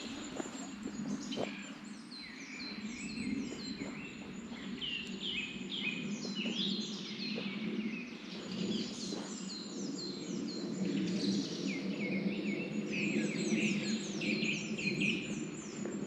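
Songbirds singing and calling, with many quick falling chirps overlapping throughout, over a steady low rushing noise.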